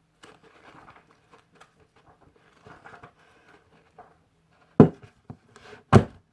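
Pages of a book being leafed through, with soft rustles and light ticks, then two sharp thumps about a second apart near the end.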